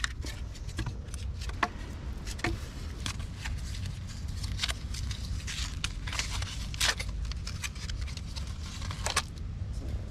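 Sticks scraping and knocking against the dirt as they are pushed into a small earth tunnel, then from about four seconds in the crinkling and tearing of a foil packet being opened.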